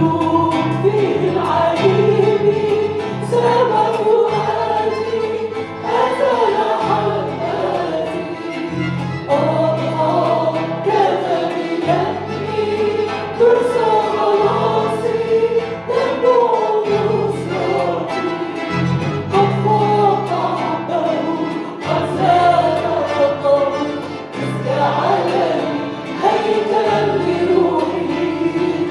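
Congregational worship singing: a group of voices singing a hymn together over a sustained bass accompaniment that changes chord every second or two.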